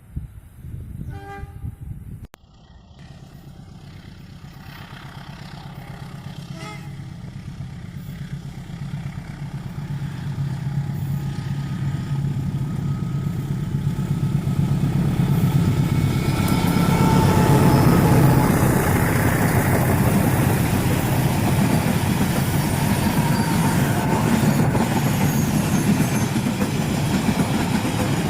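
KAI CC201 diesel-electric locomotive hauling a passenger train draws near, its engine drone and rail noise growing steadily louder for about fifteen seconds, with horn tones sounding as it approaches. It then passes close with a loud, steady rush of wheels on rails.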